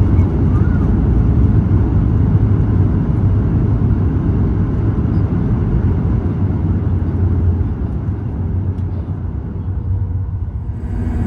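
Cabin rumble of a Boeing 737 MAX 8 rolling on the ground after landing, a steady low roar that eases off gradually over the last few seconds as the airliner slows.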